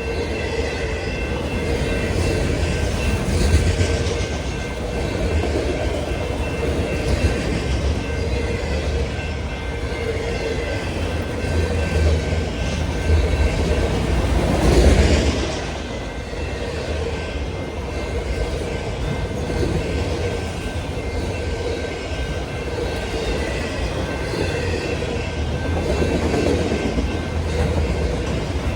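Freight train cars rolling past at close range, a steady rumble of wheels on rail with clicking over the joints and one louder swell about halfway through.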